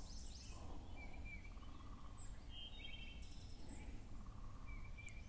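Faint bird chirps and a short trill against a steady low outdoor rumble.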